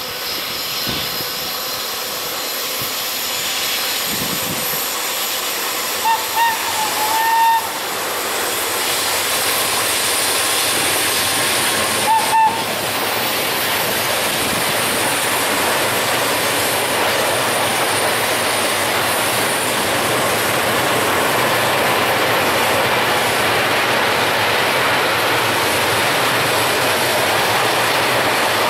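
Long container freight train approaching and rolling past: a steady rumble and hiss of wheels on rail that grows over the first dozen seconds and then holds. Short high tones sound a few times around six to seven seconds in, and twice more at about twelve seconds in.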